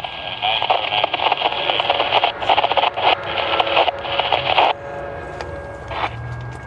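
Scanner radio transmission, mostly harsh static with a crackling, choppy texture, which cuts off sharply about four and a half seconds in; a second short burst comes about a second later.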